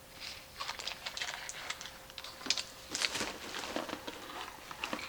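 Handling noise: packaging rustling and crinkling with a string of light, irregular clicks and knocks as a boxed blower fan and its power supply are handled, busiest about three seconds in.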